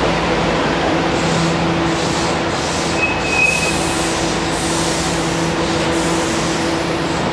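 Keihan electric train moving along the platform, a steady rolling rumble with a low, even motor hum, and a short high squeal about three seconds in.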